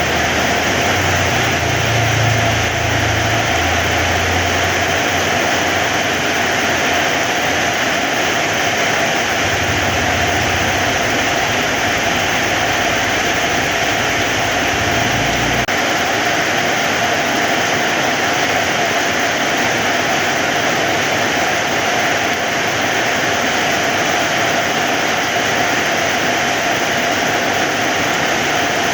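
Heavy rain falling steadily, a dense even hiss. A low rumble sits underneath for the first half and stops abruptly about halfway through.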